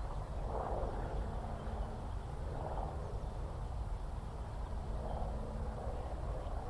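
Open-countryside ambience: a steady low rumble, with a faint even drone through the middle and soft swells every two to three seconds.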